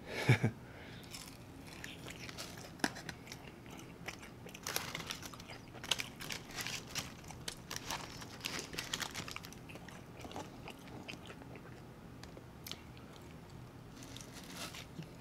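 A person chewing and biting crispy fried chicken wings and fries, close to the microphone: irregular crunching and mouth sounds, densest between about four and ten seconds in, then sparser.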